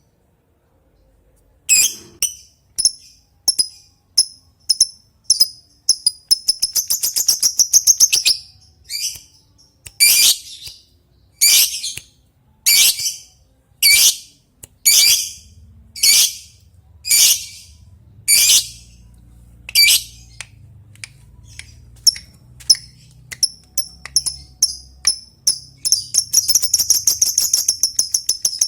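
Lovebird calling: a string of short, sharp chirps, a rapid chattering trill about six seconds in, then a run of longer, louder calls about one a second, more short chirps, and another long rapid chatter near the end. The chirps are the 'ngetik' call and the fast chatter the 'ngekek' song.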